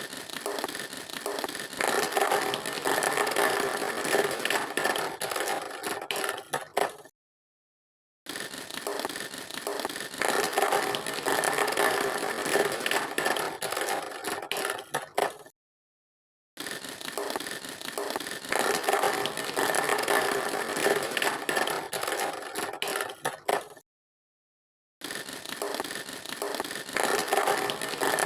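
A rattling, scraping mechanical noise with a few steady tones in it, coming in stretches of about seven seconds that each cut off suddenly into a second of silence, three times.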